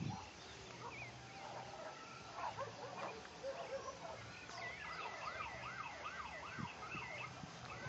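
Several small birds chirping and singing together, with one bird repeating a quick series of looping whistled notes, about three a second, in the second half.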